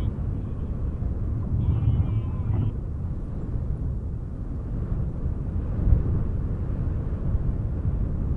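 Wind buffeting the microphone with a gusting low rumble. A sheep bleats once, about two seconds in.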